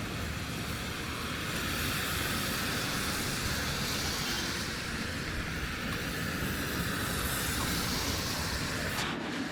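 Road traffic going past: the rushing tyre and engine noise of a passing vehicle swells about two seconds in and eases off near the end.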